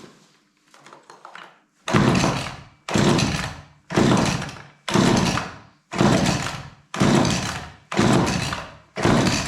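A chainsaw's two-stroke engine being pull-started over and over, eight sharp pulls of the recoil starter about once a second from about two seconds in, each pull fading out; the engine won't start.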